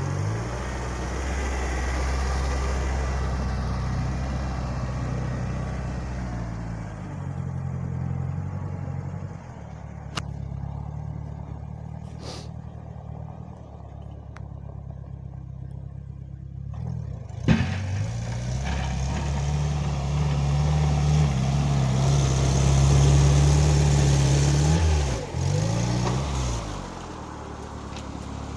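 Homemade mini tractor's engine running under changing load while clearing snow, its speed rising and falling. It runs lower and quieter in the middle, then after a sharp knock it works harder again, its pitch dipping briefly a few times near the end.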